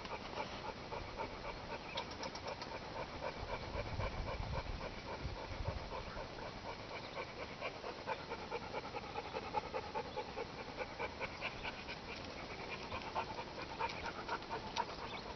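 A dog panting steadily and quickly, about three breaths a second.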